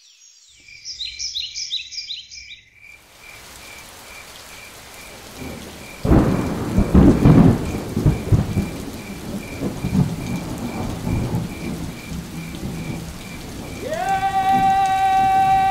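Rain falling, with a thunder rumble breaking in about six seconds in and dying away over several seconds. A faint high chirp pulses steadily underneath, and a held pitched note comes in near the end.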